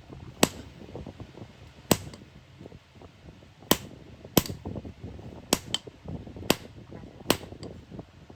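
Hammer blows on iron, about eight sharp strikes at uneven intervals, two of them in quick succession a little past the middle, with quieter handling noise between.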